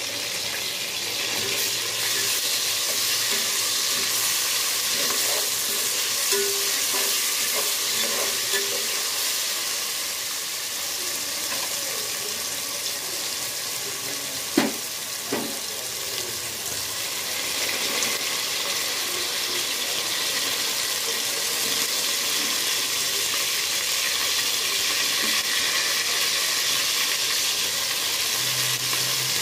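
Onions and ginger-garlic paste sizzling in hot oil in an aluminium pot, a steady frying hiss. Two sharp knocks about halfway through, the stirring spoon striking the pot.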